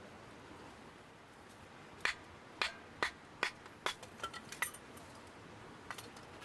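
A run of about eight sharp, light clinks of hard objects knocking together over two and a half seconds, then one more near the end.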